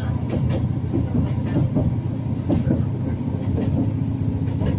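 A train running along the track, heard from on board: a steady low rumble of the running gear with irregular clicks and clacks of the wheels on the rails.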